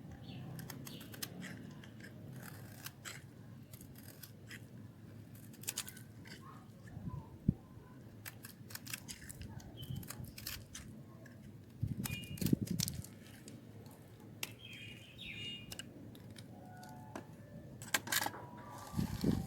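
A knife cutting hard, dry soap: an irregular run of crisp clicks and cracks as the blade scrapes and chips the bar. The cuts are loudest about twelve seconds in and again near the end.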